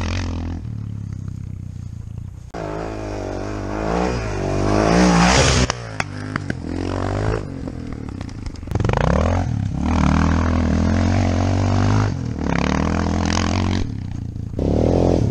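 CCM R30 motorcycle engine revving hard and dropping back again and again as it accelerates and shifts gear. The pitch climbs and falls in repeated sweeps, and the sound changes abruptly several times.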